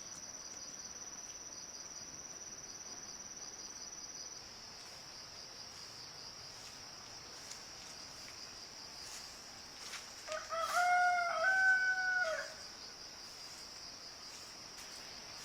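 A rooster crows once, a call of about two seconds starting about ten seconds in, over a steady high-pitched insect chirring.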